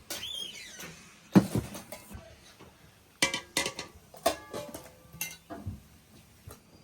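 Dishes and cutlery clinking: a sharp knock about a second and a half in, then a quick run of ringing clinks in the middle.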